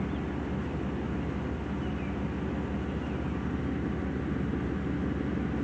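Pickup truck's V8 engine idling smoothly and steadily through a newly installed K&N cold air intake.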